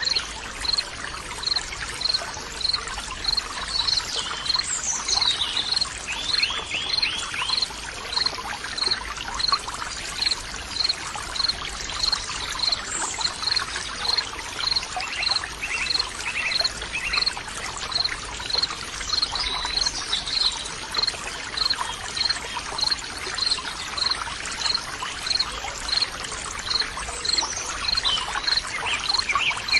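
Nature ambience: water trickling and pouring steadily, with birds calling now and then and a high chirp repeating about twice a second throughout.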